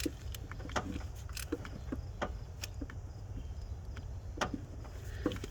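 Light, irregular clicks and taps of a screwdriver working the small Phillips-head screws on a camshaft sensor, over a steady low hum.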